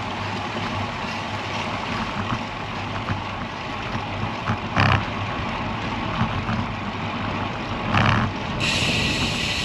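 Wind buffeting the microphone while riding a road bike, over steady road and tyre noise, with short louder gusts about five and eight seconds in.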